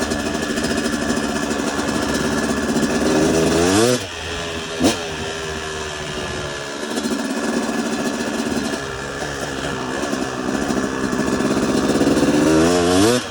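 Motocross bike engine pulling hard with the revs climbing, dropping off abruptly about four seconds in, then running steadily and climbing again toward the end. A brief sharp sound comes just after the drop.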